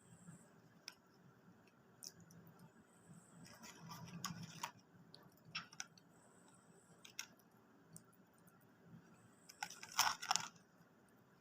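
Eating McDonald's food: faint scattered clicks and crunches of chewing and biting, with a louder crackle about ten seconds in.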